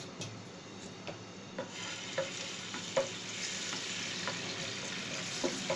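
Ginger garlic paste sizzling in hot oil in a non-stick frying pan. The sizzle swells about two seconds in, and a wooden spatula stirring the paste knocks and scrapes against the pan several times.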